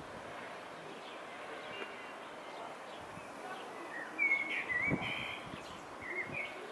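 Songbirds chirping in short, wavering phrases over a faint steady outdoor background, the clearest calls about four seconds in and again near the end.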